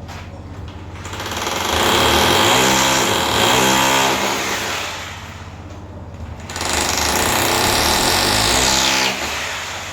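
A power tool run in two bursts, the first about four seconds and the second about two and a half, with a rattling, hammering sound over a steady low hum.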